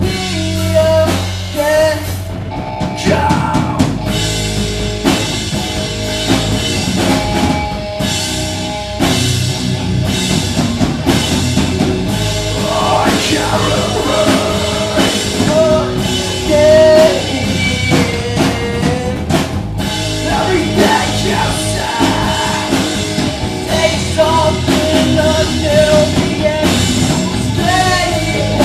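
Rock band playing live: drum kit and guitars with a sung vocal line.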